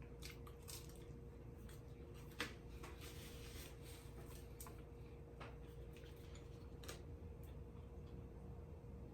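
Faint close-miked chewing of pizza: soft, wet mouth clicks and smacks, with one sharper click about two and a half seconds in, over a steady faint hum.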